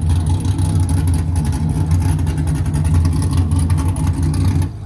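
A car engine running at a steady, low, loud idle that cuts off suddenly near the end.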